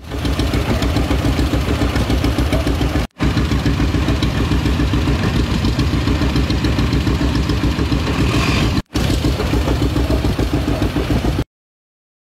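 Tractor engine running with a steady, fast pulsing exhaust beat, cut off abruptly twice and then stopping.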